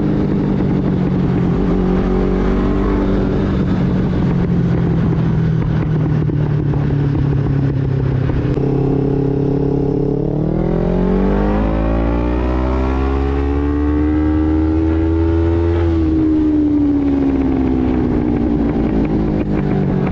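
Older Honda CB500 motorcycle engine running through an aftermarket Coyote exhaust, holding a steady speed for about ten seconds, then revved up slowly over several seconds and let back down.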